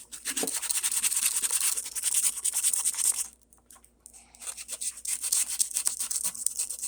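Sandpaper on a sanding block rubbing quickly back and forth over hardened Bondo glazing putty, in rapid short scratchy strokes. It pauses for about a second midway, then resumes.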